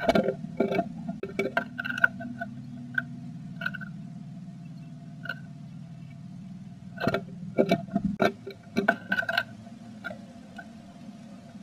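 Bursts of short taps, clicks and scratches inside a wooden nest box, from a female blue tit working nest material, in a cluster at the start and again about seven seconds in, over a steady low hum.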